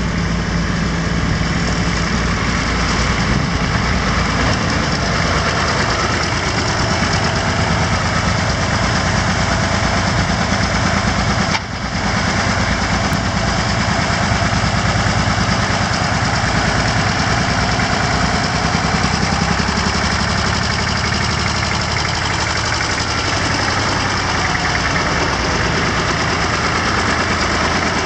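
Allgaier Porsche A133 tractor's air-cooled diesel engine running steadily, with a brief break in the sound a little before the middle.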